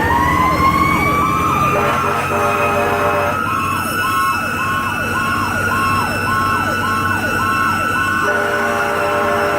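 Fire truck sirens: a mechanical Federal Q siren winds up to a steady, high, screaming whine, while an electronic siren yelps about twice a second. About 8 s in, the truck's air horn blasts over them.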